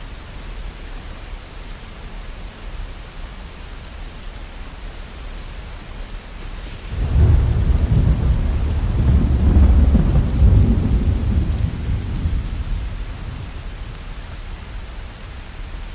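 Steady heavy rain, with a deep thunder rumble that breaks in suddenly about halfway through, rolls on for several seconds and fades away.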